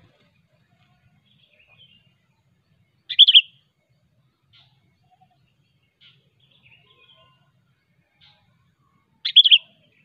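Sooty-headed bulbul calling: two short bursts of loud, clear notes, about 3 seconds in and again near the end, with faint chirps between.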